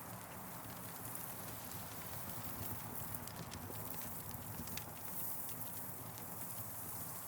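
Campfire burning: a steady hiss and low rumble of flames with irregular, sharp crackles and pops from the wood.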